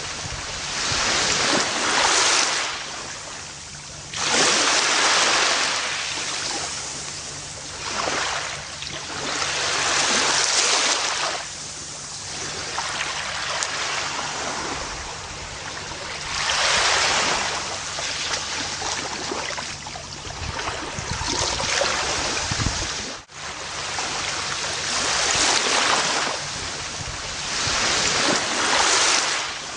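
Gentle ocean waves washing onto a beach, the surf swelling and falling back every few seconds. There is a momentary dropout in the sound about three-quarters of the way through.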